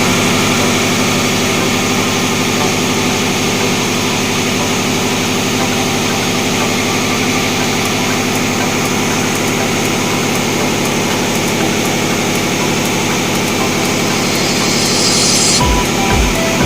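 Diesel machinery in a tugboat's engine room running with a loud, steady drone. A brief hiss rises near the end.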